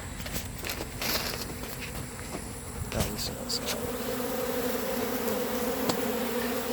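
Honeybees buzzing around an opened hive, a steady hum that grows louder and more even in the second half. A few sharp knocks sound about one and three seconds in.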